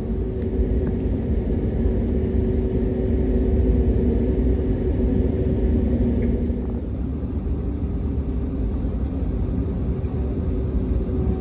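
Cabin noise of an Airbus A321neo taxiing: a steady low rumble with an even engine hum, easing slightly about halfway through.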